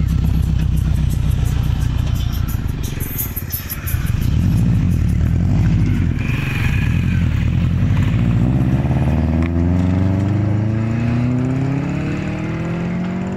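Subaru Forester SG5's flat-four boxer engine running loud through its exhaust, with a short dip about four seconds in. The car then pulls away, its engine note climbing steadily over the last few seconds as it accelerates off and fades.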